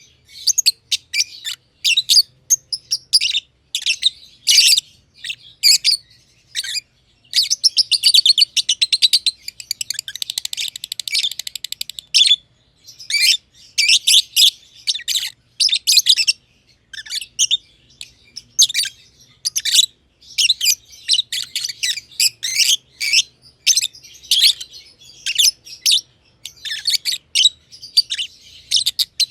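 Masked lovebirds (personata lovebirds) chirping: a steady stream of high, sharp chirps, running together into a fast unbroken chatter from about 7 to 12 seconds in, then a brief pause before the chirping resumes.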